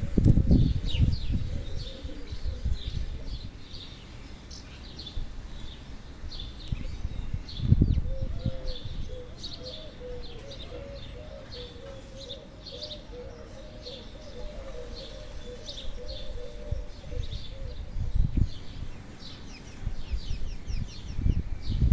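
Small birds chirping repeatedly in short calls, with a faint wavering lower tone through the middle and low rumbling gusts at the start, about eight seconds in, and near the end.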